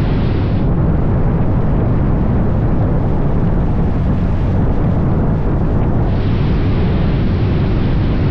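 Steady wind rush over a motorcycle-mounted microphone while riding, with the motorcycle's engine running beneath it.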